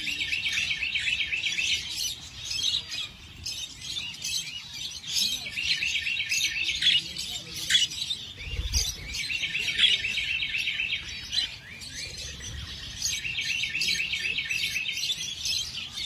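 Small birds chirping, with rapid high trills that come in repeated bouts and overlap with scattered single chirps. A brief low bump comes about eight seconds in.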